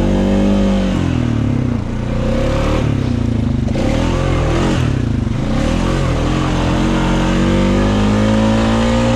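Honda Rubicon ATV engine running under load, its pitch rising and falling as the throttle changes and climbing steadily over the last few seconds.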